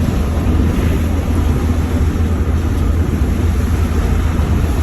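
Steady engine and road rumble of a vehicle being driven.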